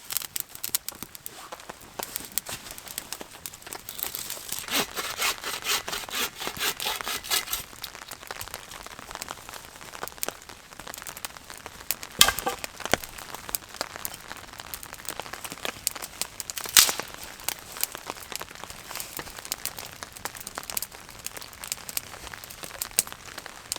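Small kindling fire of birch bark and twigs crackling as it catches, with a dense run of crackles a few seconds in and a few sharp pops later.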